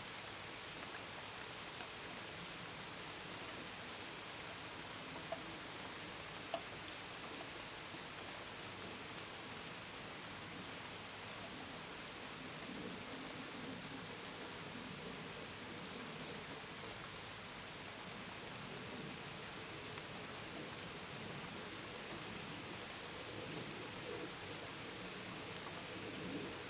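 Steady gentle rain falling, with crickets chirping in a continuous high-pitched trill. Two sharp drips land about five and six and a half seconds in, and a low warbling sound rises near the end.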